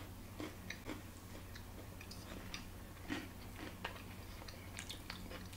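Maltesers, malt balls with a crisp centre, being chewed: faint, irregular little crunches and clicks over a steady low hum.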